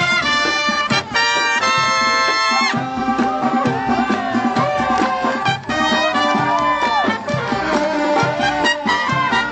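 Live college band with brass playing. It holds loud horn chords for the first three seconds or so, then moves to shorter notes with bends in pitch.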